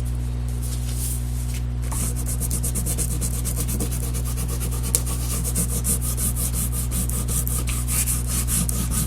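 A peeled wax crayon rubbed on its side across a sheet of paper in quick, rhythmic back-and-forth strokes, a steady scratchy rubbing as the sky background is colored in.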